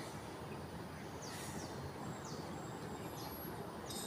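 Outdoor background hum with a few short, high, falling bird chirps spread through it.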